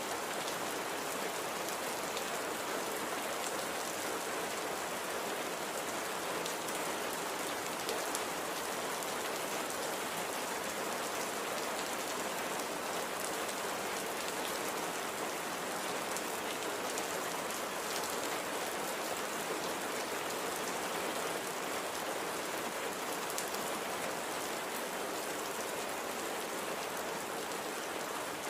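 Steady light rain falling on a surface, an even hiss with faint scattered drop ticks.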